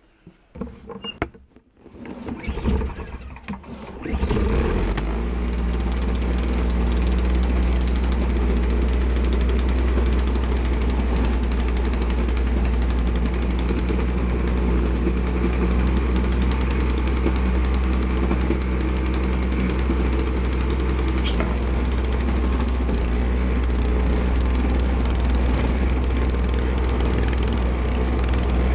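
Snowblower's small gasoline engine starting up about four seconds in, after a few seconds of irregular knocking, then running steadily and loud, heard close up from a camera mounted on the machine.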